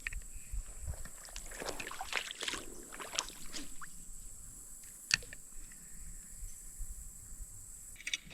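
Water splashing and sloshing around a small paddled boat, in an irregular cluster in the first few seconds, with a single sharp knock about five seconds in.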